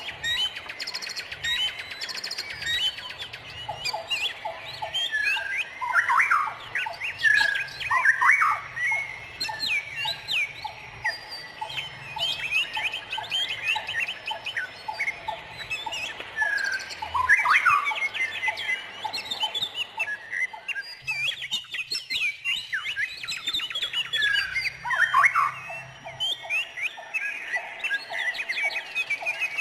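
A dense chorus of many birds chirping, trilling and calling over one another, with quick rising and falling notes packed together and a repeated pulsing call coming in twice.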